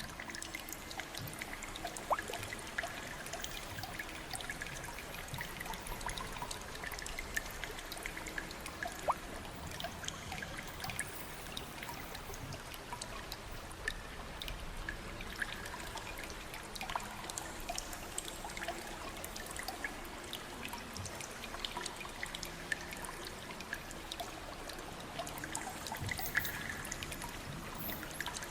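Water trickling and pouring steadily, with many small drips and light splashes scattered through it.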